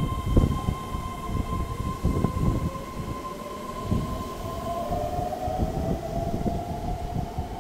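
Keihan 13000 series electric train running, with irregular low thuds of wheels over the track. A steady high whine and a second tone that slowly rises in pitch from about the middle run over them.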